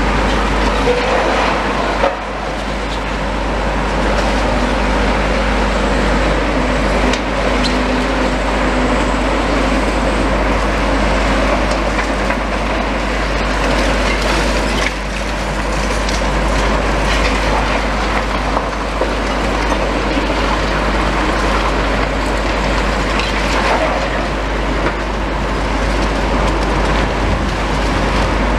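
Heavy demolition machines working: a steady, loud din of engines and grinding, with a few knocks scattered through it.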